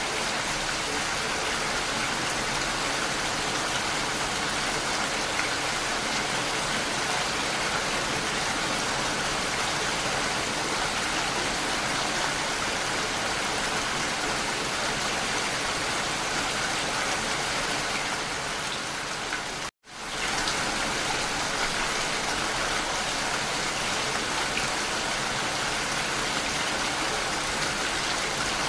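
Steady rainfall, an even hiss of falling rain. About two-thirds of the way through it fades down, cuts to silence for an instant, and comes straight back.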